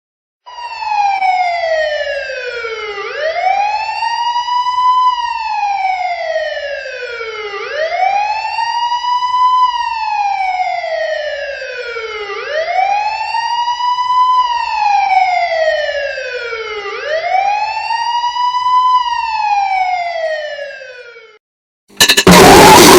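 A wailing siren, its pitch sliding slowly down and back up about every four and a half seconds, four times over, then cutting off. About a second later, loud harsh noise music crashes in.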